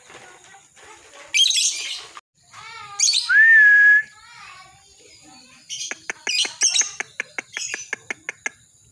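Lovebird chattering song: harsh high screeches, then a clear whistle that rises and holds for about half a second, then a fast run of sharp chips.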